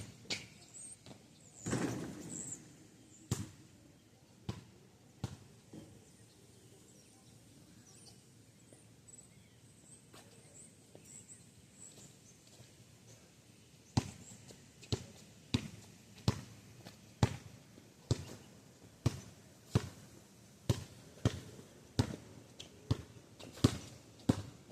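Basketball bouncing on street pavement: a few separate bounces, a pause of several seconds, then steady dribbling from about halfway through at roughly one and a half bounces a second.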